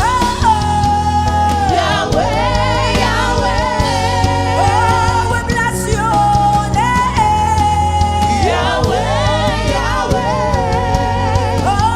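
Gospel worship song: a lead voice holding long notes with runs and slides, over keyboard and bass accompaniment, with backing singers.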